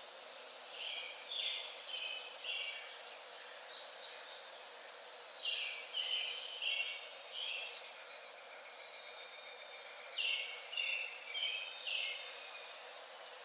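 A songbird singing phrases of four or five short, high notes, repeated three times about four to five seconds apart, over a steady outdoor hiss.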